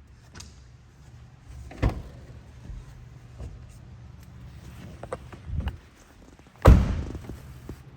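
Pickup truck door being worked: a sharp thump about two seconds in, small clicks and rustles, and a loud door slam near the end, over a low steady hum.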